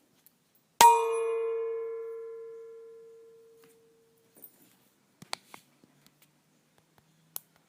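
A metal chime struck once, a clear ringing tone that fades away over about three seconds. A few faint clicks follow near the end.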